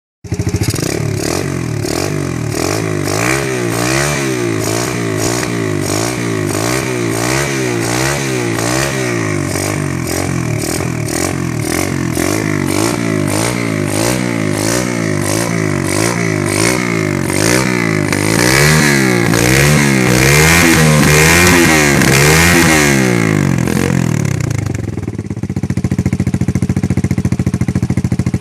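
Terra Moto TDX 125F pit bike's single-cylinder four-stroke engine revved over and over in quick throttle blips, the revs rising and falling in a steady rhythm. It revs hardest near the end, then drops back to a steady idle.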